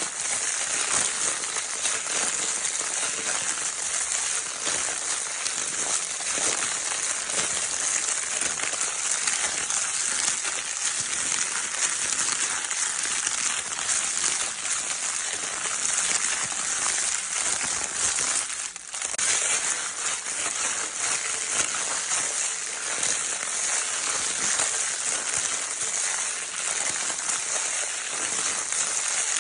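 Crinkle paper from a baby's crinkle toy being handled, a continuous dense crinkling, with a brief lull about nineteen seconds in.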